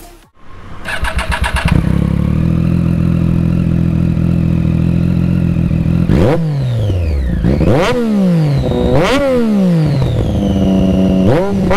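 Triumph Daytona 675R's three-cylinder engine starting up about a second in and settling into a steady idle. It is then revved three times, each rev climbing sharply and falling back to idle, with another rev beginning near the end.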